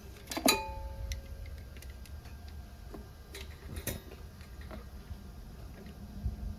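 Small metal parts clicking and clinking during hand work on a small engine's carburetor linkage. One sharp clink with a brief metallic ring comes about half a second in, followed by a few lighter clicks a few seconds later, over a low steady hum.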